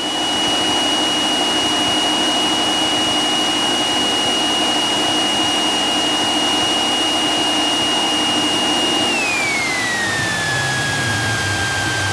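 Cessna 172 engine running, heard inside the cockpit, with a steady high whine that drops in pitch about nine seconds in.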